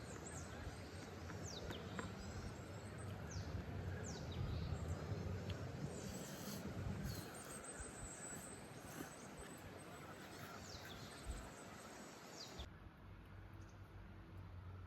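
Birds calling outdoors: short, high, falling chirps scattered through, over a faint steady background rumble. Near the end the background abruptly turns quieter and duller.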